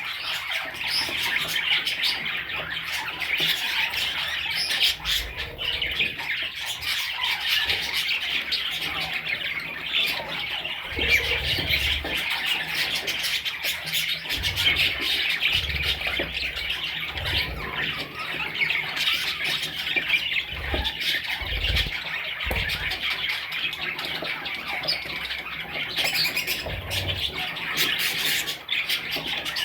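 Many budgerigars chattering and squawking together in a continuous, dense warble, with a few low thumps mixed in.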